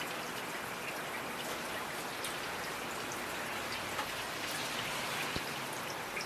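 Steady rain falling, with individual drops ticking now and then over the even hiss.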